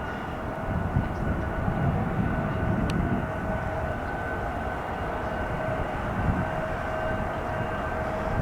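Jet airliner engines running, a steady whine over a low rumble.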